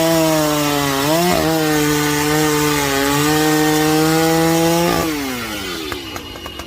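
Poulan Pro 525 chainsaw, fitted with a 51 cc cylinder and piston, running at high revs with a brief dip in pitch about a second in. About five seconds in the throttle is released and the two-stroke engine winds down to an even idle.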